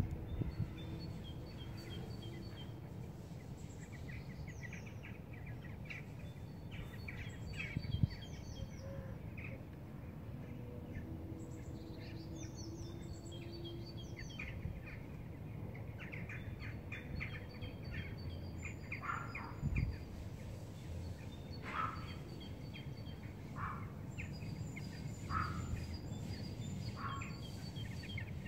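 Small songbirds chirping and whistling in short repeated calls over a steady low background rumble. Now and then faint, drawn-out low tones are heard: the 'trumpet'-like sound from the sky.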